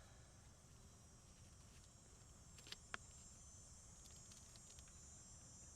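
Near silence with faint, steady insect chirring, like crickets, and two small clicks about three seconds in.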